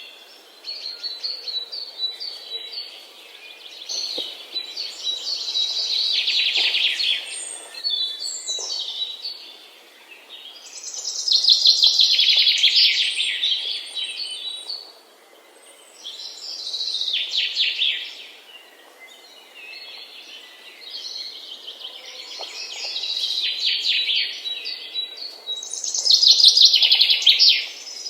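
Songbirds singing: bouts of rapid, high chirping trills, each a few seconds long, come back about every five seconds with quieter gaps between them.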